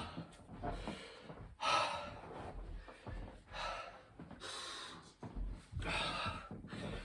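A man breathing hard in loud, gasping breaths, one every second or two, winded from a long set of burpees.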